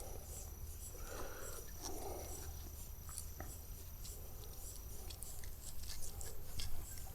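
Quiet handling sounds of a raw tilapia fillet being pushed onto a green wooden stick skewer: soft wet squelches and small clicks. A faint steady high tone runs underneath and stops about five seconds in.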